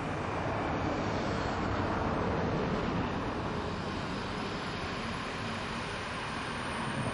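A train running past: a steady rush of wheel and running noise that swells over the first few seconds and then eases a little.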